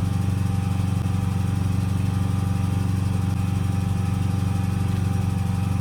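An engine running steadily at idle: a low, even drone with a fast flutter.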